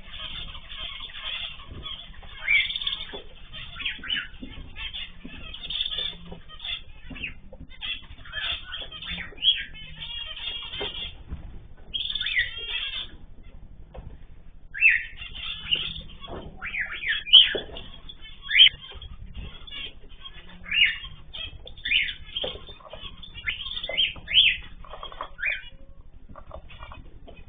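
Many small cage birds chirping and calling at once in a mixed aviary of cockatiels, zebra finches, canaries and goldfinches: a steady stream of short chirps with a few louder, sharper calls standing out.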